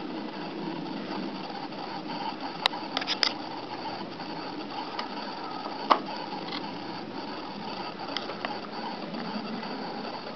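Engine idling steadily through a KERKER turndown muffler, a low even rattling hum, with a few sharp clicks about three seconds in and a louder one about six seconds in.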